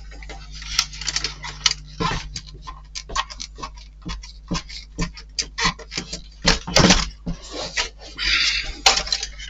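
Irregular small clicks and knocks as small model-kit parts are handled and set down on a work surface, with a short rustle about eight seconds in.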